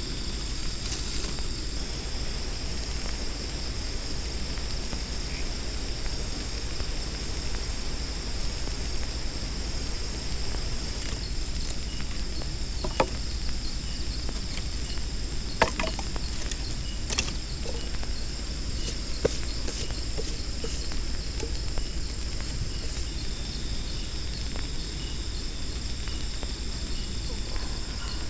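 Jungle insects droning in a steady high-pitched chorus over a constant low rushing noise, with a few short clicks or knocks scattered through the middle.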